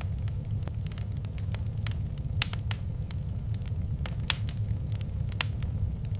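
Wood fire crackling in a fireplace: scattered sharp pops and snaps, a few of them louder, over a steady low rumble.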